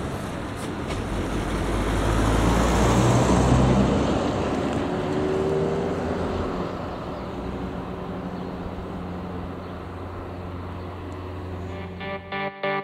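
A vehicle passes close by: the noise swells to a peak about three and a half seconds in and then fades away, over a low engine drone that carries on. Music starts near the end.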